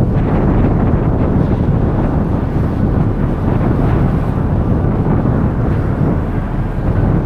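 Strong wind buffeting the microphone: a loud, constant low rumble that surges and fluctuates.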